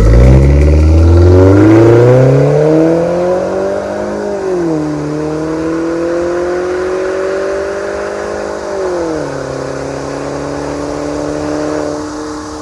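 Mercedes-Benz E250 CGI's turbocharged M271 four-cylinder engine through a valved MS-R cat-back exhaust and straight-through downpipe, accelerating. The revs climb hard for about four seconds, then the pitch drops sharply twice, at upshifts about four and nine seconds in, and settles to a steady drone near the end.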